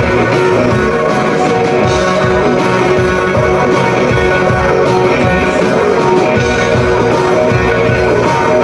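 Loud live rock band music, with electric guitar to the fore over a steady beat from the rhythm section.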